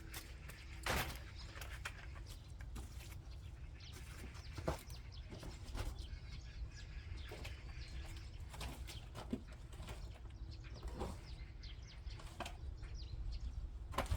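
Shovel digging into garden soil: scattered scrapes and knocks a second or two apart, over a low rumble.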